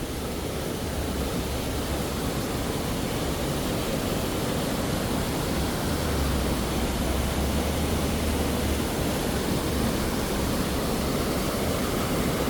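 Steady rushing of a waterfall in a canyon, a continuous even roar of falling water.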